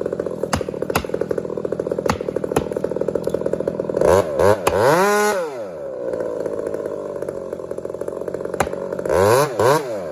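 Two-stroke chainsaw idling, revved up once about four seconds in and allowed to fall back, then blipped twice near the end. A few sharp knocks come in the first few seconds.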